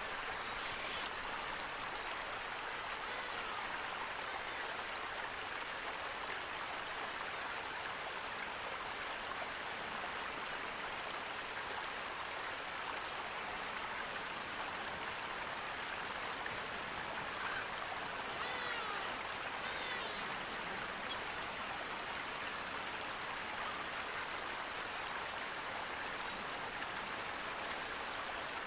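Running water flowing steadily with an even rush, as of a stream. A few faint, short bird chirps come through about two-thirds of the way in.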